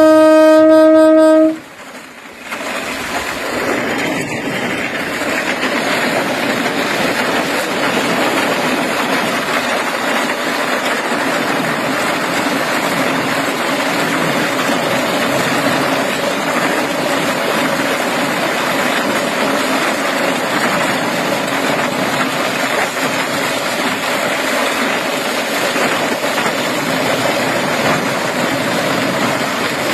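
Train horn sounding one loud, single-pitched blast for about a second and a half, which cuts off sharply. The steady, even noise of a running train follows.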